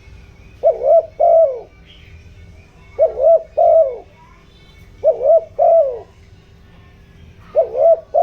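Spotted dove cooing: four phrases about two seconds apart, each a quick run of two or three swooping coos.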